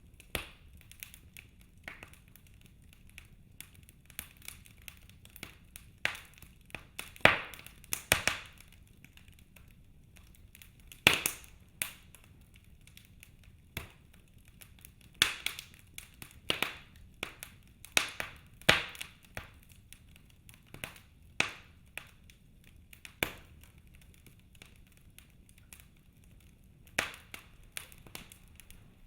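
Wood fire crackling in a fireplace: scattered sharp pops and snaps from burning logs, some louder and in quick clusters, over a quiet background.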